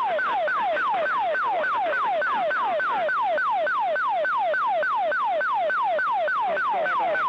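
Emergency locator transmitter (ELT) distress tone heard over the air traffic control radio: a tone sweeping down in pitch about four times a second, repeating without a break. It is the automatic signal of a crashed aircraft.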